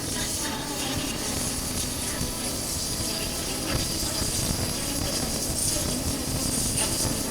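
Honda CB400X motorcycle's parallel-twin engine running steadily under way, with wind rushing over a chest-mounted camera's microphone.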